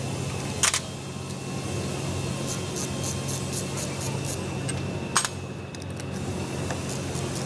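Two sharp metallic clinks, one under a second in and one about five seconds in, as metal gearbox parts or tools are handled. Under them run a steady low hum and a light, fast ticking.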